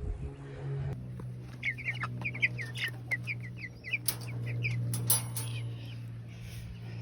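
Cornish Cross chicks peeping, a quick run of short high chirps, over a steady low hum, with a couple of sharp knocks about four and five seconds in.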